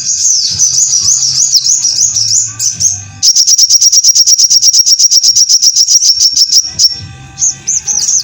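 Little spiderhunter (sogon) song: quick high swooping whistled notes, then a fast even trill of high notes, about a dozen a second, for nearly four seconds, before the swooping notes return near the end.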